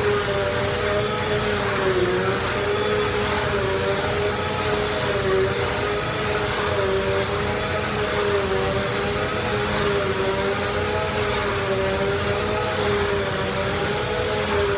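Bissell Easy Vac 3130 vacuum cleaner running steadily, its motor whine wavering slightly up and down in pitch.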